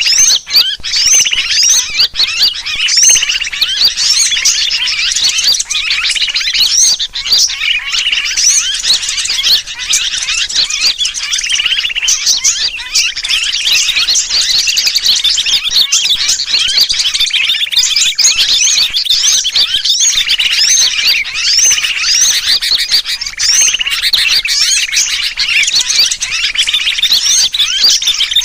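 Bird-lure recording: a dense, unbroken chorus of many small birds chattering, mixed with the distress calls of a sooty-headed bulbul (kutilang), the 'pinched bird' call used to draw birds in. Quick high chirps and rising notes overlap throughout.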